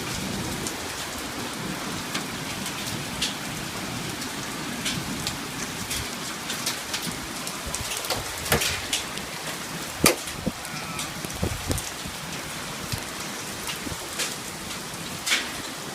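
Hailstorm with heavy rain: a steady downpour, broken by scattered sharp knocks of hailstones striking hard surfaces, the sharpest about ten seconds in.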